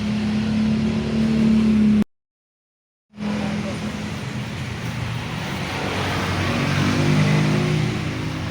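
A motor vehicle engine running steadily, cut off abruptly about two seconds in. After a second of silence, another engine grows louder and fades again, like a vehicle passing by.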